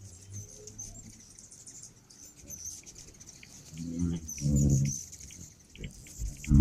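Small birds chirping: many short, high-pitched chirps all through, with a louder, muffled low voice-like sound about four to five seconds in.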